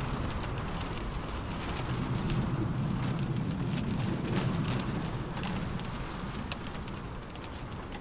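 Rain on a car roof heard from inside the car, a steady patter with scattered sharper drop hits, over a low rumbling wind that swells a few seconds in and eases toward the end.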